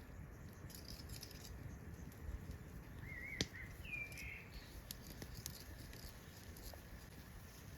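Quiet outdoor ambience: a steady low rumble with scattered faint ticks. A bird gives two short warbling chirps a little past the middle, and a single sharp click at about the same moment is the loudest sound.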